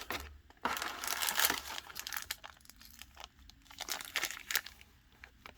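Packaging crinkling and rustling as the parts of a wooden model kit are handled, dense for the first couple of seconds, then in sparser crackles and light clicks.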